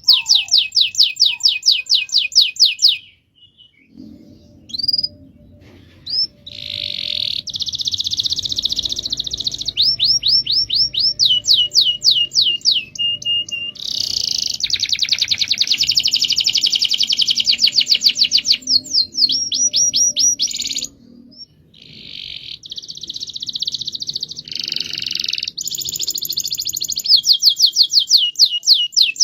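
Domestic canary singing long rolling trills ('ngerol'): fast runs of rapidly repeated high notes, many of them rising, broken by a couple of short pauses.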